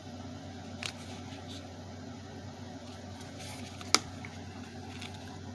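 Plastic parts of a Bissell Helix vacuum cleaner, its filter housing, handled with a few light clicks, the sharpest one about four seconds in, over a steady low hum.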